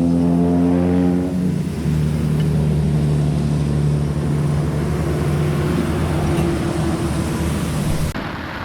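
An engine running steadily, its note stepping down slightly about a second and a half in, over a rushing noise. The sound changes abruptly near the end.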